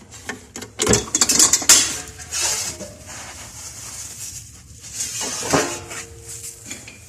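Metal oven door of a masonry cooking stove being opened and handled: clanking and rattling about a second in and again around five and a half seconds, with brief squeaks.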